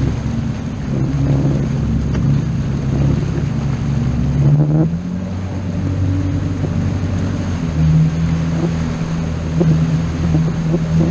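Motorboat engine running steadily, its note shifting about halfway through and again a few seconds later.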